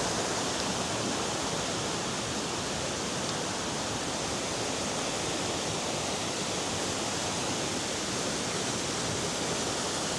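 A waterfall falling and splashing: a steady, even rush of water.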